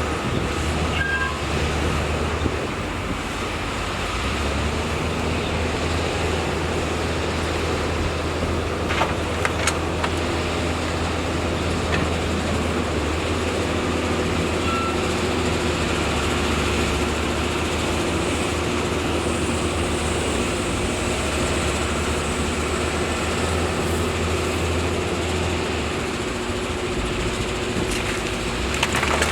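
Heavy diesel earthmoving machinery running steadily with a deep engine drone, with a couple of sharp metallic knocks about nine to ten seconds in.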